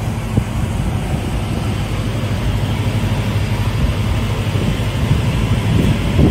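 Winter MRS-155 tracked-feed multi-rip saw, with its 55 kW main motor, running with a steady low hum and a rushing noise, a little louder about six seconds in.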